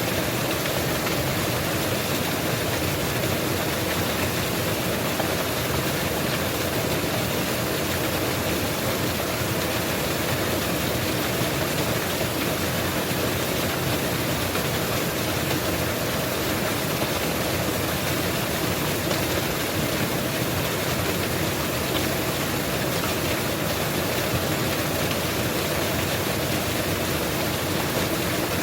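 Mountain waterfall rushing in a steady, unbroken roar of falling water.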